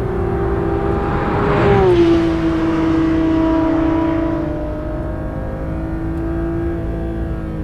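2021 Porsche 992 GT3's 4.0-litre naturally aspirated flat-six running at a steady engine speed through its lightweight exhaust. About two seconds in it swells louder as its pitch steps down, then holds steady and eases lower again near the end.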